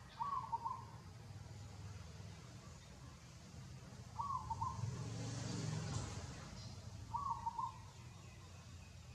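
A bird repeating a short call of a few quick notes three times, a few seconds apart. A low rushing noise swells and fades about five to six seconds in.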